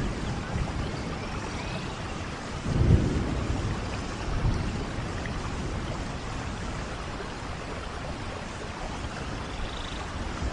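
Steady rainfall hissing, with a low rumble of thunder about three seconds in, the loudest moment, and a smaller rumble a second and a half later.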